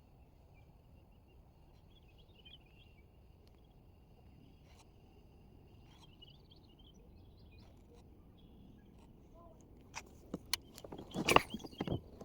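Faint outdoor background with a few small bird chirps; in the last couple of seconds, a string of sharp knocks and clatters, the loudest about a second after they begin.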